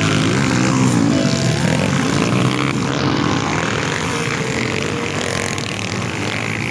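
Off-road motorcycle engines running, their pitch rising and falling as the riders open and close the throttle.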